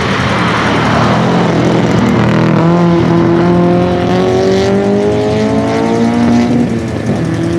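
Race car engine accelerating hard, its pitch climbing steadily for several seconds, then dropping sharply near the end before holding steady.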